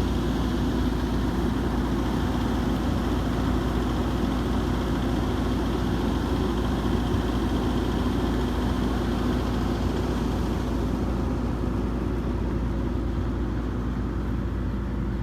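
Diesel engine of a Hitachi ZX135US excavator running steadily under working load, with a constant low hum.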